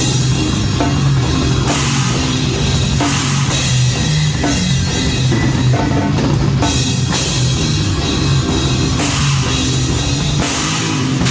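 Heavy metal band playing live, with the drum kit loudest: rapid, dense drum hits and bursts of crashing cymbals come and go over the band's steady low, heavy tones.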